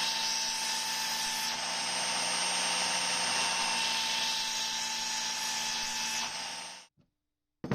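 Belt sander running steadily, then cutting off abruptly near the end, followed by a single sharp knock.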